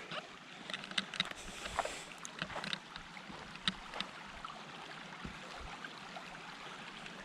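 Creek water running steadily, with a few faint clicks and knocks in the first few seconds.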